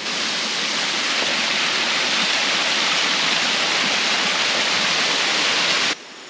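Small waterfall, water pouring steadily with an even rushing hiss that cuts off suddenly near the end.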